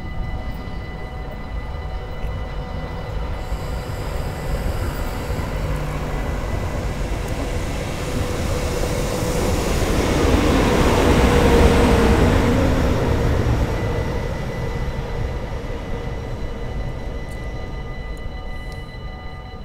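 A yellow DB measuring train with a Class 111 electric locomotive at the rear passes close by. Its wheel and rail noise builds to a peak a little past halfway, then fades as the locomotive moves away. A level crossing's warning bells ring steadily throughout.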